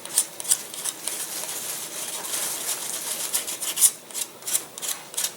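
Fingers rubbing CA-glue-soaked glass cloth down onto the balsa wing joint, a run of irregular scratchy strokes.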